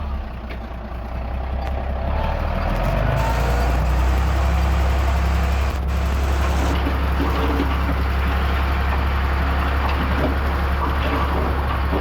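Diesel engine of heavy earthmoving machinery running steadily with a low drone, louder from about three seconds in.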